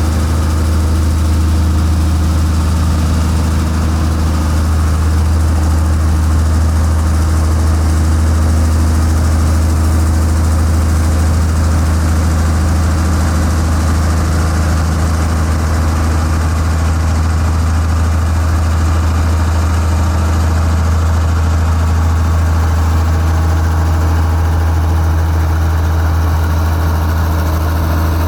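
Heavy diesel engine of construction equipment running steadily at a low, even speed.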